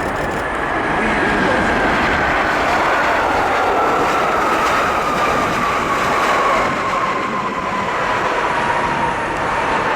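Jet airliner passing close by: a loud, steady rushing of its engines, with an engine whine that falls slowly in pitch as it goes past.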